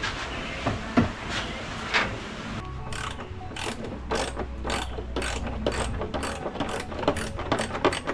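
Ratchet wrench clicking as it works on a bolt: a few separate clicks at first, then a steady run of sharp clicks, about three a second, from a few seconds in.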